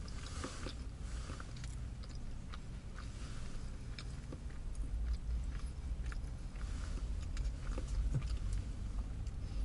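A person chewing and biting a burger up close, with small wet mouth clicks scattered throughout, over a low steady rumble.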